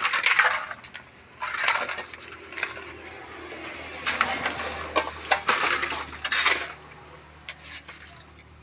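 Stones and rubble being picked up and tossed, a series of rough scrapes and sharp clinks of stone on stone.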